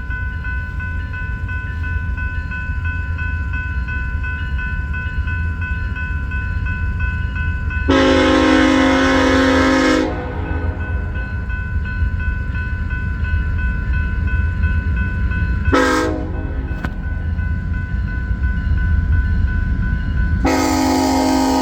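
Train running with a steady low rumble while its locomotive horn sounds: one long blast about 8 seconds in, a short blast and a very short one around 16 seconds in, and another long blast starting near the end.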